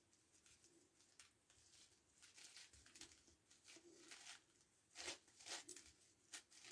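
Faint, irregular plastic clicking and clacking of a 9x9x9 Rubik's Cube's layers being turned by hand, a little louder near the end.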